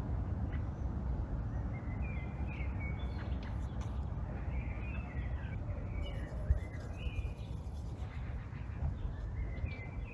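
Small songbirds chirping and calling off and on over a steady low outdoor rumble, with one sharp tap about six and a half seconds in.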